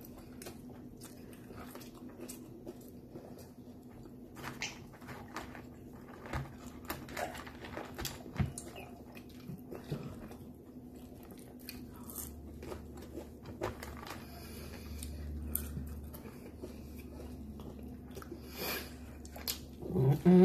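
A person eating fried chicken wings: biting and chewing, with short crunches at irregular moments, over a steady low hum.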